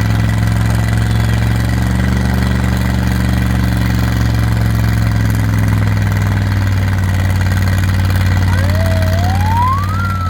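A vehicle engine idling steadily. Near the end a single rising, siren-like tone sweeps upward, and then the sound cuts off abruptly.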